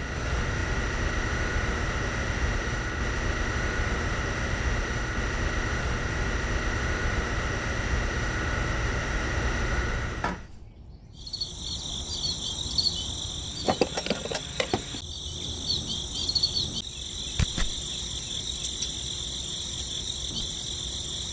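A small electric motor running steadily with a constant hum, stopping abruptly about ten seconds in. After that, crickets chirr steadily, with a few light knocks and clicks.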